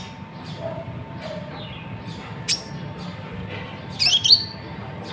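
Konin (kolibri ninja) sunbird calling: a few faint high notes, a single sharp chip about halfway through, and a louder burst of quick rising notes near the end. A faint steady hum lies underneath.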